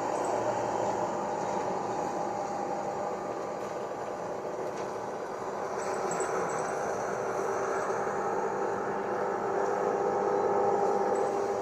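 Gillig hybrid transit bus running with its regular air conditioning on: a steady hum with several sustained tones. It dips slightly, then swells about six seconds in and again near the end.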